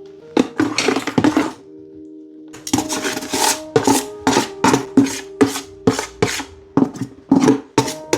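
Shredded salted cabbage being pressed down into a glass jar with a cocktail muddler: a run of short, sharp tamping strokes about two a second, with a brief pause early on.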